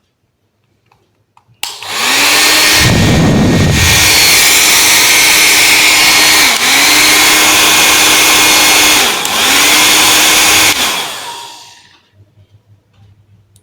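Philips HP8144/46 1000-watt hair dryer switched on, its motor rising in pitch as it spins up, then blowing steadily. Its motor tone dips briefly twice. The airflow gusts onto the microphone about a second after starting. It is switched off near the end and winds down.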